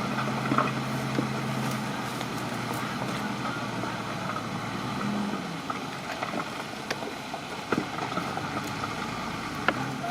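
Crawler bulldozer's diesel engine running with a steady low hum that fades out about halfway through, over a constant mechanical noise with scattered sharp clicks and clanks.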